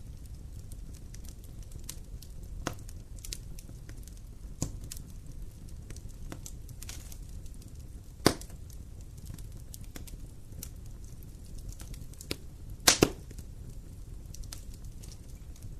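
Wood campfire burning with a low steady rumble and scattered crackles. A loud pop about eight seconds in and a quick double pop near thirteen seconds.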